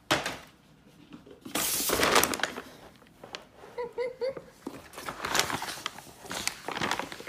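A bag crinkling and rustling as a cat moves around inside it, loudest about two seconds in, then in scattered crackles.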